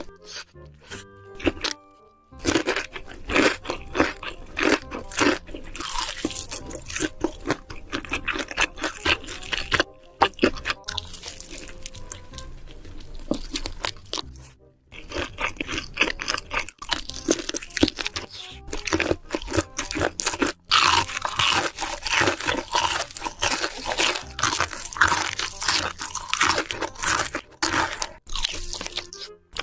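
Close-miked crunchy eating: a person biting and chewing crisp food in rapid, irregular crunches, with music playing underneath.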